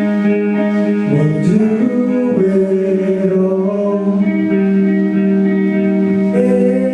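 Guitar music with long held notes that slide in pitch, about a second in and again near the end.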